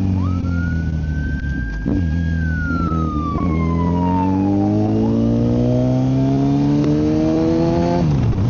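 Kawasaki Z900 inline-four running through a full M4 aftermarket exhaust, heard from inside the rider's helmet, accelerating through the gears: the engine note climbs steadily from about three seconds in and drops sharply with an upshift near the end. A thin whistling tone rises, holds, then slides down over the first five seconds.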